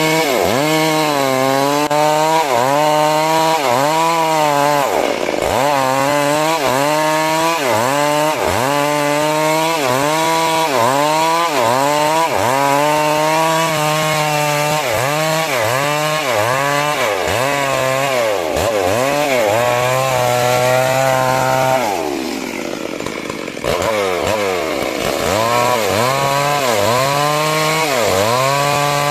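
Chainsaw cutting timber, the engine's pitch dipping and recovering about once a second as the chain bites into the wood. It eases off briefly about two-thirds of the way through, then cuts again.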